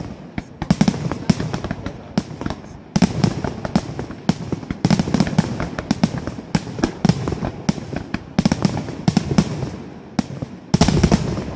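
Fireworks display: rapid, overlapping bangs and crackles of exploding shells, with a dense, loud volley near the end.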